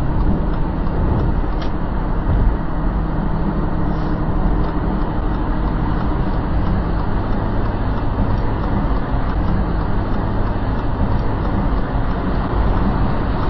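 Steady road and engine noise of a moving vehicle, with a low, even engine hum and no change in pace.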